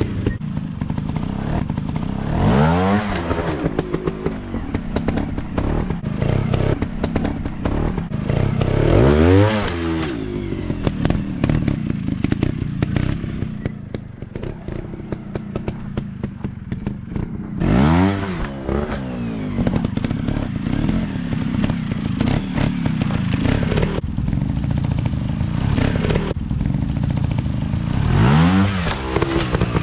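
Off-road dirt bike engines running, revving up and back down four times over a steady drone, with scattered knocks and clatter throughout.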